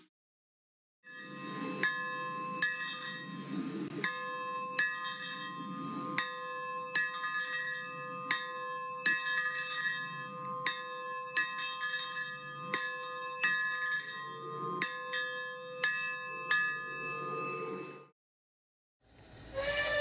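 A steam locomotive bell ringing steadily, about three strikes every two seconds, with its tone ringing on between strikes and a low rushing noise underneath. It starts about a second in and stops shortly before the end.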